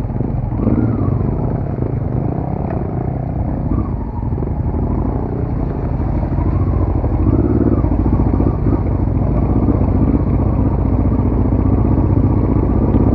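Off-road motorcycle engine running close by, its pitch wavering up and down with the throttle.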